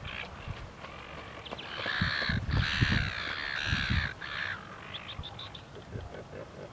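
A bird giving a run of harsh, cawing calls, loudest from about one and a half to four and a half seconds in, with low thumping noise underneath.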